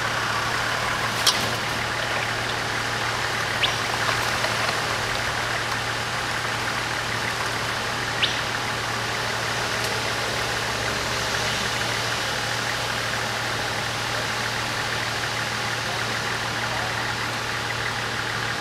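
Four-wheel-drive ute's engine running steadily at low revs as it crawls over a rutted dirt track, with a few brief sharp ticks in the first half.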